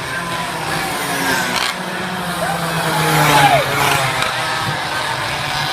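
Minibike engines running at a race, with a steady low drone and a few short rising and falling revs about midway.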